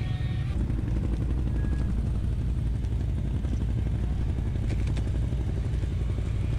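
ATV engine running steadily, its low pitch unchanging.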